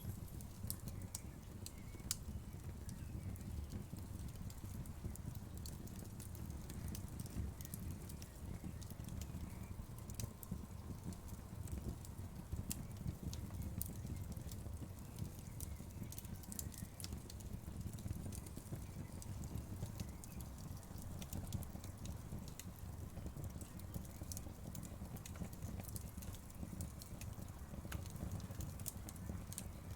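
Wood fire burning in a fireplace: a steady low rumble of the flames with frequent small, irregular crackles and pops from the burning wood.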